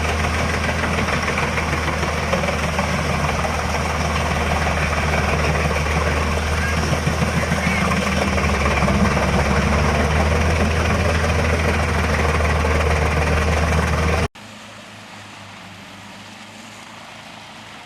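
HEM 821 Cobra hybrid wood chipper running steadily while chipping logs: a deep, constant engine drone with dense grinding noise over it. It cuts off abruptly about 14 seconds in, leaving a much quieter steady machine hum.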